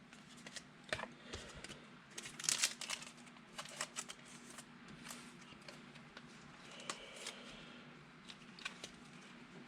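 Trading cards being handled and sorted by hand: scattered soft rustles and light clicks, busiest about two and a half seconds in, over a faint steady low hum.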